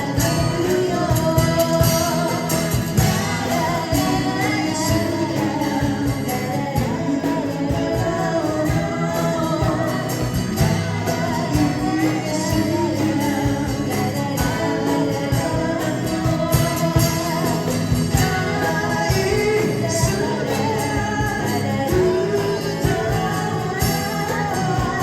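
A song performed live: singing over continuous instrumental accompaniment.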